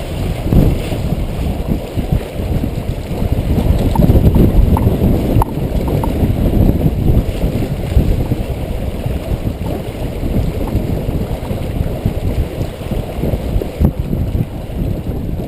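Strong gusting wind buffeting the microphone aboard a small sailboat in a low, turbulent rumble, gusting hardest about four to five seconds in.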